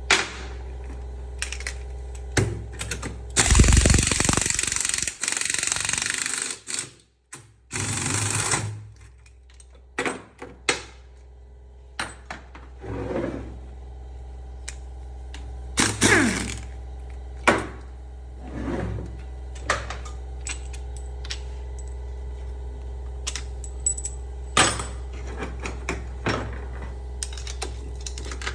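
A pneumatic tool runs for about three seconds, then again briefly, while a car gearbox is being dismantled. Scattered clinks and knocks of metal tools and gearbox parts follow, over a steady workshop hum.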